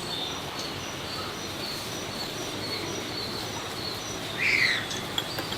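Outdoor background noise with short, high chirps repeating throughout, and about four and a half seconds in, one louder call from a bird that falls in pitch.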